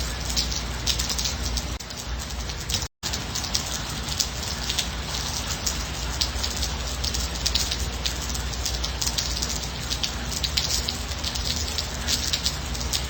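Steady rain, a dense stream of individual drop ticks over an even hiss. About three seconds in, the sound cuts out completely for a split second and then resumes, an edit or splice in the recording.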